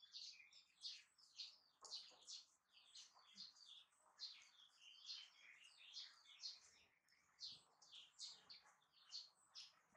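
Small birds chirping faintly: a steady run of short, high chirps, two or three a second.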